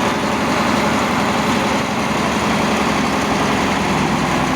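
Engine running steadily at a constant pitch.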